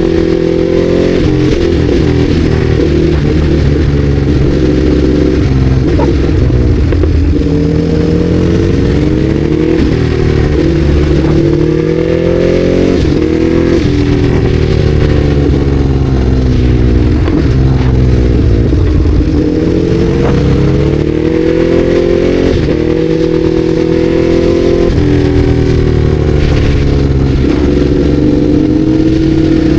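Ducati Hypermotard 821's 821 cc L-twin engine under way from the rider's seat. Its revs climb and then drop sharply again and again, as it pulls through gear changes and backs off.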